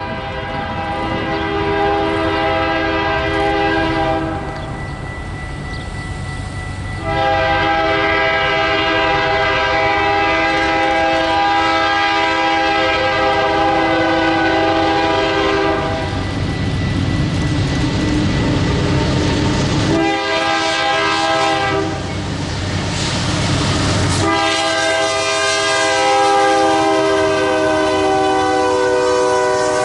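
A freight diesel locomotive's multi-chime air horn sounding a chord in four blasts, long, long, short, long, the grade crossing signal, over the low rumble of the passing train.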